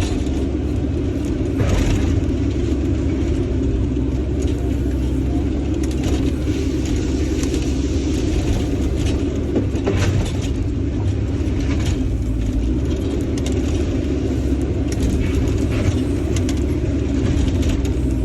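Steady low engine rumble of heavy machinery, with scattered metallic clinks and knocks.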